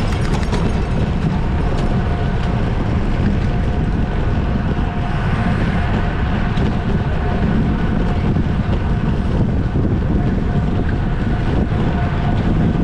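Steady, heavy wind rumble on a camera microphone moving at racing speed on a bicycle, with a faint steady whine above it.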